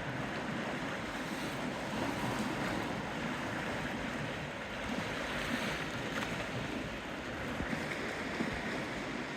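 Steady rushing of wind with sea water washing against the shore.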